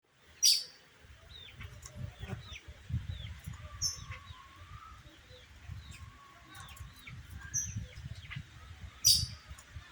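Songbirds chirping: many soft short downward chirps, with two loud, sharp, high calls, one about half a second in and one near the end. Low irregular thumping runs underneath.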